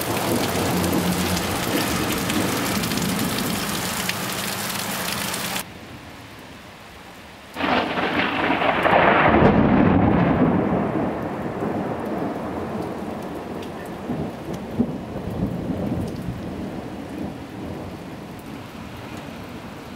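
Thunderstorm: heavy rain with rolling thunder. The sound drops away suddenly for about two seconds, then a loud peal of thunder breaks in about halfway through and rumbles, slowly fading under the continuing rain.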